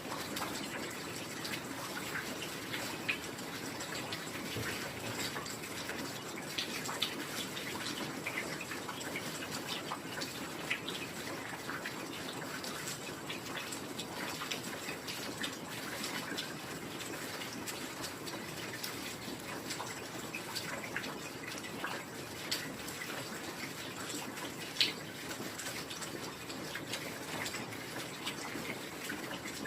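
Heavy rain falling steadily: a dense, even hiss with many scattered sharper taps of individual drops, one a little louder near the end.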